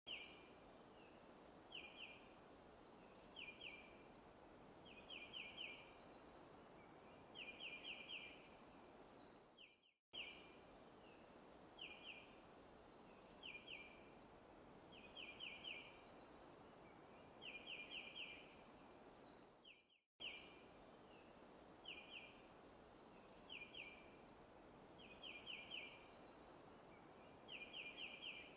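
Faint forest ambience: a bird chirping in short groups of notes, from single chirps building to quick runs of three or four, over a steady soft hiss. The sound cuts out briefly about every ten seconds and the same pattern of chirps starts over.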